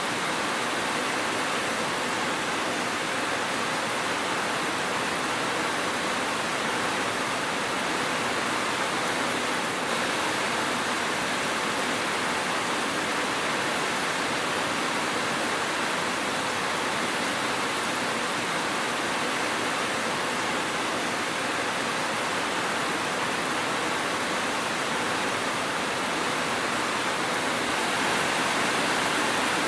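Steady rain falling, an even hiss with no breaks, a little louder near the end.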